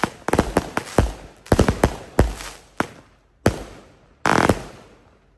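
Consumer firework cake firing a rapid string of aerial shots, several bangs a second at first, then thinning to a few single reports and a longer crackling burst as it nears its end.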